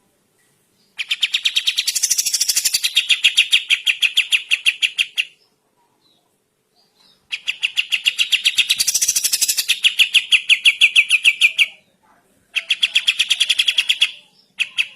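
Kapas tembak songbird singing a rapid, rattling run of repeated notes, delivered in three long bursts of several seconds each and a brief one near the end, with short pauses between.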